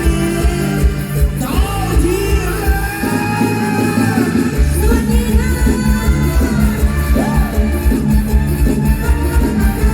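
Live mor lam band music with a singing voice over a heavy, steady beat; the bass and drums drop out briefly about three seconds in and come back a second and a half later.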